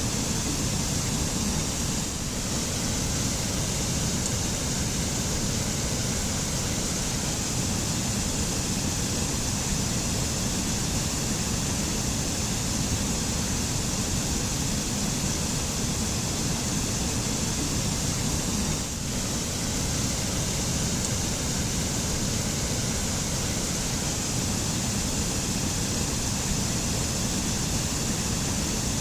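Waterfall rushing steadily: an even roar of falling water with a deep rumble and a bright hiss. It briefly dips twice, about two seconds in and again near the middle.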